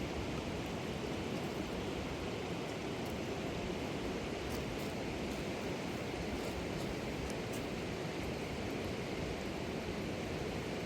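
River water rushing steadily, an even unbroken rush of flowing water.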